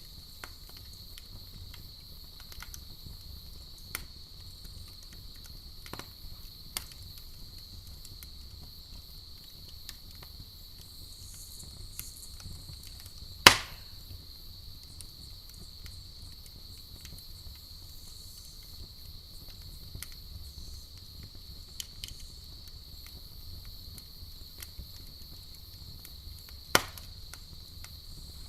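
Campfire crackling with scattered sharp pops from the burning wood, one loud snap about halfway through and another near the end, over a steady high chirring of crickets.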